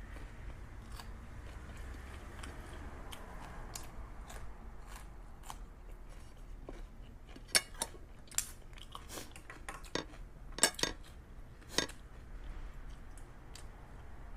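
A person eating: chewing, with a run of sharp clicks and crunches from about halfway through.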